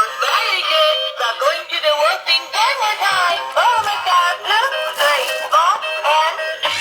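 A stunt scooter toy's built-in speaker playing a song with high-pitched singing. It sounds tinny, with no bass.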